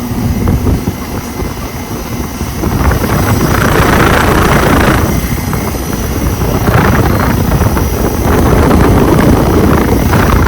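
Outdoor condensing unit of a 2024 Ameristar central air conditioner running, with a new Trane rotary compressor: steady low hum under the rushing air of the condenser fan, which swells louder a few times.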